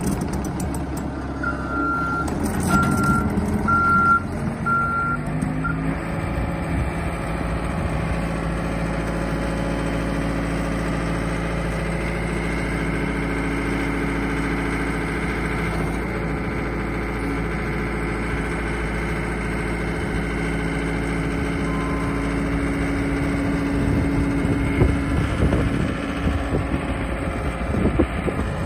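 Yanmar T210 tracked skid steer running, its reversing alarm beeping about five times in the first few seconds while the engine note rises. The engine then runs steadily, with some knocking and clanking near the end.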